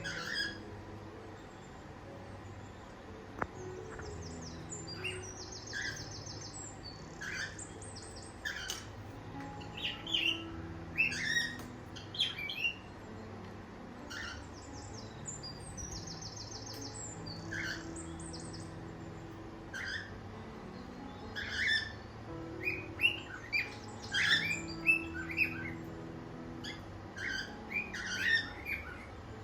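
Cockatiels chirping and calling in short, scattered notes that come thicker and louder past the middle, with a couple of quick buzzy trills mixed in.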